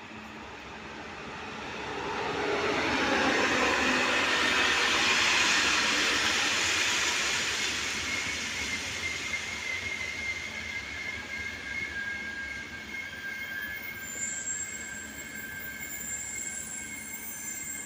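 Czech Railways electric locomotive and passenger coaches passing close by: a rising rush of rolling noise that peaks a few seconds in as the locomotive goes past. The coaches then keep rolling by with steady high-pitched wheel squeal from about eight seconds in.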